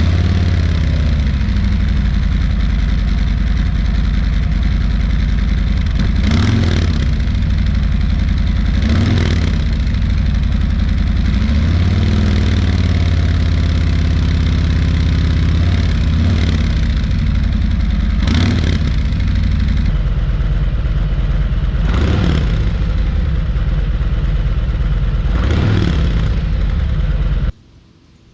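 Harley-Davidson Road Glide Limited's Milwaukee-Eight 114 V-twin idling through its stock exhaust, with several short throttle blips that rise and fall back to idle. The sound cuts off suddenly near the end.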